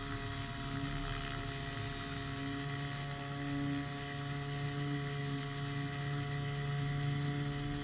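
Powered hang glider's engine droning steadily at constant speed, with a slow regular beating in its tone.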